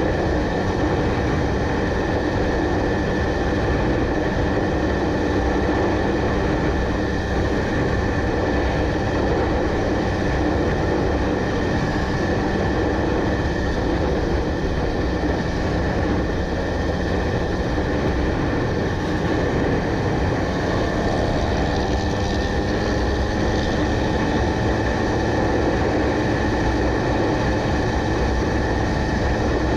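Steady rumble of a vehicle in motion, unbroken throughout, with faint held tones in it.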